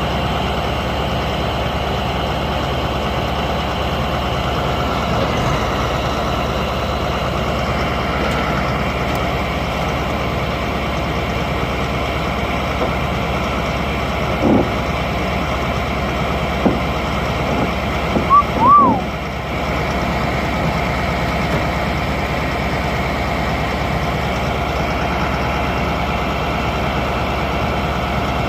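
Case 2294 tractor engine running steadily while its loader strains to lift a heavy load it can barely manage. A few brief knocks come about halfway through, and a short squeal shortly after.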